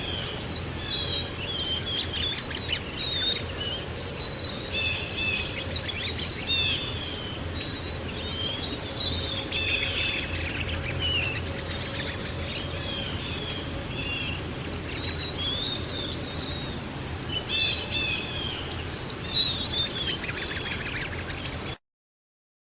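A dense chorus of small birds chirping and twittering over a steady rushing background, as of a flowing river. It all cuts off suddenly near the end.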